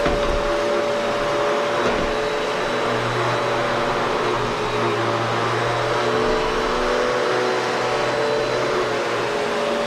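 Vacuum cleaner running steadily, a constant motor hum and whir of suction. The vacuum had been used on a construction site and is blowing dust back into the air.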